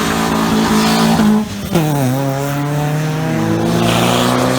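Tuned car engine running at high revs. About a second and a half in, its note drops sharply, then climbs steadily as the car accelerates away.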